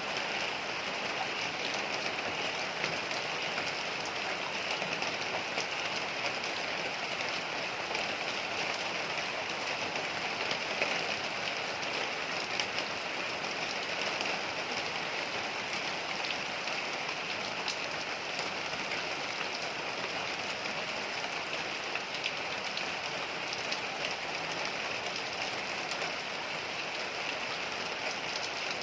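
Heavy rain falling steadily: a dense, even hiss with scattered sharper ticks of individual drops.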